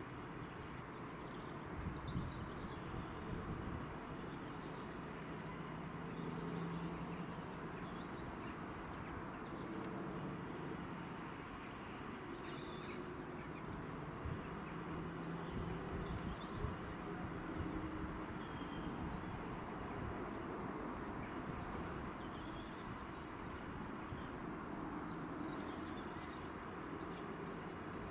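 Birds chirping on and off over a steady low background rumble, with a faint low hum through the middle.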